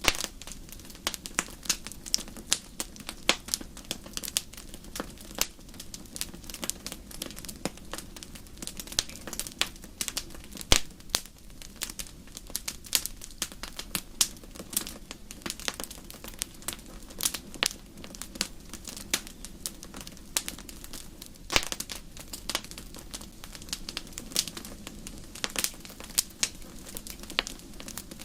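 Campfire crackling and popping, with many irregular sharp snaps over a low steady rumble of burning.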